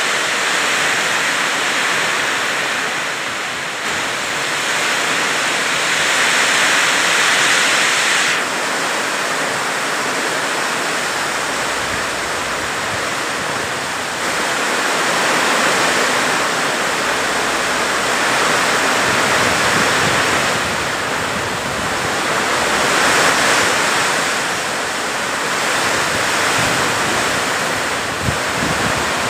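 Heavy rain pouring down in strong wind: a loud, even hiss that swells and eases every few seconds as the gusts come and go.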